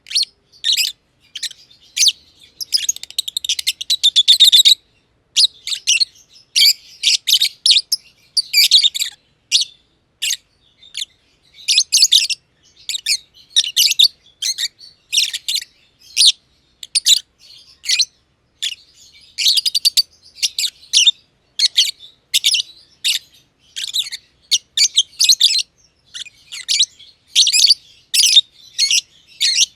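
Masked lovebirds (green and pied green personata) chirping constantly in rapid, high-pitched strings of short chirps, with a longer unbroken burst of chatter about three seconds in.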